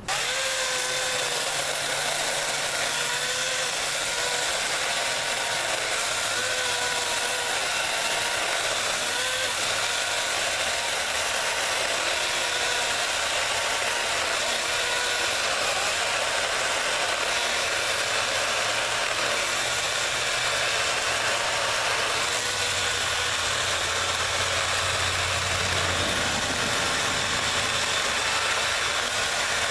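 Chainsaw cutting through a tree stump, running steadily under load, its pitch dipping and recovering every second or two as the chain bites.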